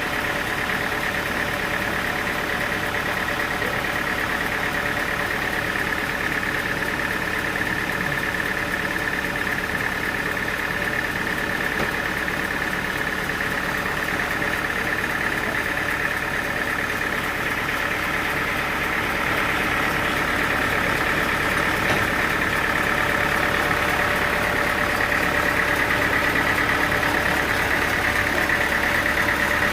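Sawmill machinery running steadily: an engine with a high whine over it, which grows a little louder and higher about two-thirds of the way through.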